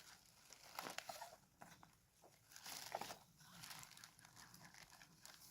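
Faint, irregular crinkling and rustling of plastic sheeting, with a few sharp clicks, as the pond liner is handled and unpacked.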